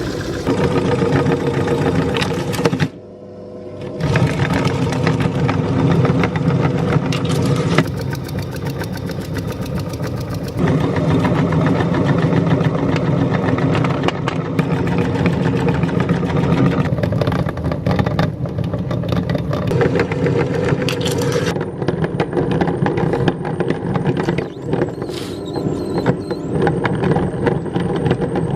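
Electric meat grinder motor running steadily while grinding hard-candy lollipops, with many sharp cracking clicks from the candy breaking. The sound drops for about a second near three seconds in, then carries on.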